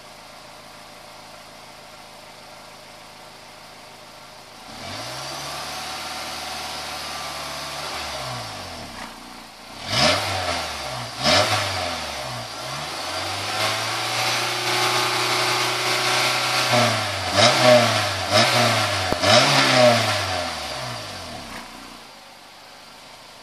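Honda S2000's 2.0-litre four-cylinder engine heard at the exhaust. It starts running a few seconds in and idles, then is revved in a series of quick blips, with one longer held rev. The engine drops back near the end.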